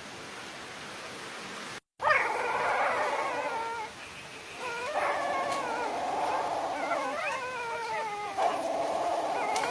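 Dogs howling and whining in long, drawn-out calls that slowly fall in pitch, at times two voices overlapping; they start about two seconds in, after a brief dropout and a faint steady hiss.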